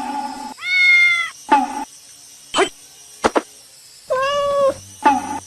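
Domestic cat meowing twice, two long drawn-out meows about three seconds apart, with a few short clicks between them.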